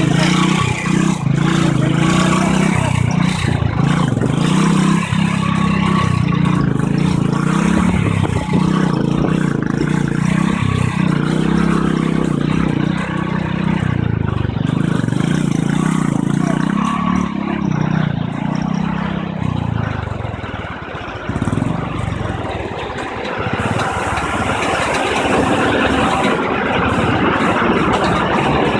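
Motorcycle engine running under way, with a steady rushing noise over it; the engine note drops off about two-thirds of the way through.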